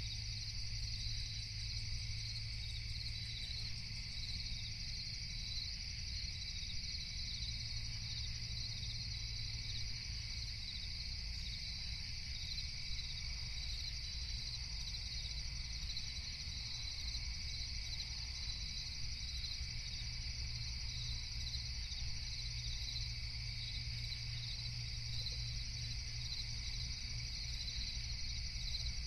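A steady chorus of crickets chirping, with a continuous low rumble underneath.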